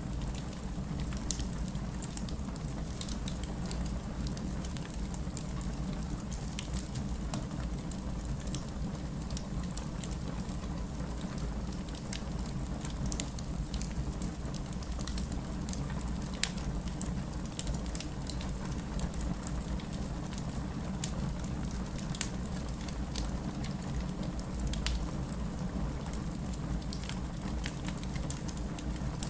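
Wood fire burning steadily with a low rumble of flames and frequent small crackles and pops, a few sharper ones standing out.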